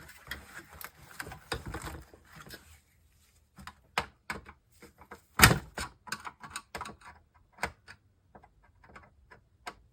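Irregular clicks and knocks from hands working at a stuck power board inside a monitor that is being taken apart. The loudest knock comes about five and a half seconds in.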